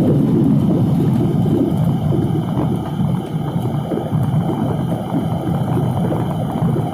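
Jet airliner cabin noise: a loud, steady rumble of engines and airflow heard from inside the passenger cabin.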